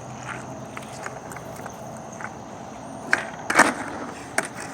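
Skateboard rolling, then the board clacks on the ground about three seconds in, with a louder hit half a second later and another near the end, as a trick is attempted.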